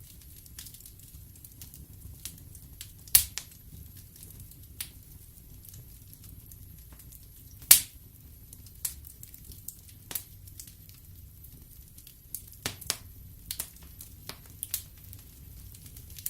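Wood fire burning in a fireplace, crackling with irregular sharp pops, the loudest about three seconds in and just before eight seconds, over a low steady rumble.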